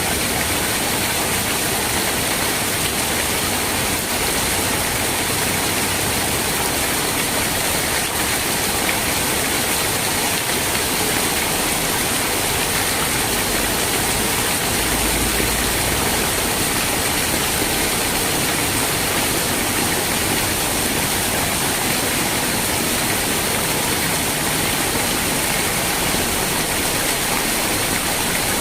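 Steady rain, an even hiss with no breaks or distinct drops standing out.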